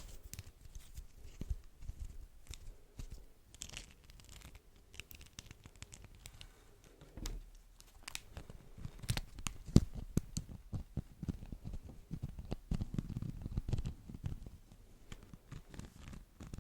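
Beeswax wrap crinkled and pulled close to the microphone: dense, irregular crinkling and sticky, tearing crackles, with soft low thumps in the second half and one sharper click a little under ten seconds in.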